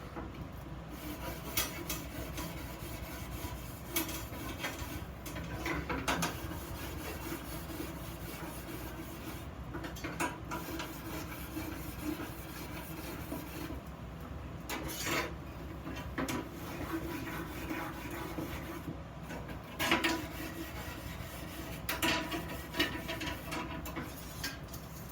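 Intermittent scraping and rubbing with scattered clicks, from hand work on iron vase parts, over a steady low hum.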